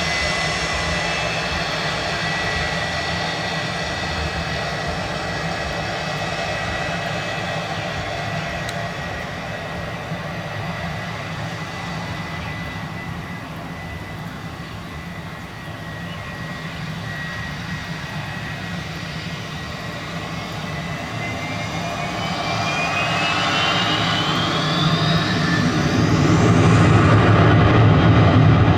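Cessna Citation Longitude's twin Honeywell HTF7700L turbofans whining steadily, then spooling up in a rising whine that grows louder over the last several seconds as power comes up for takeoff.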